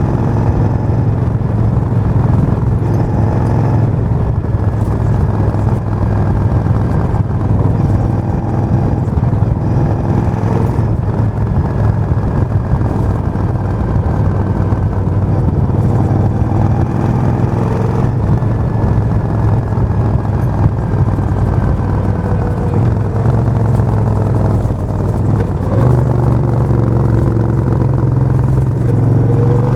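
Suzuki VS1400 Intruder's 1360 cc V-twin running steadily, its engine note rising slightly a little before the end.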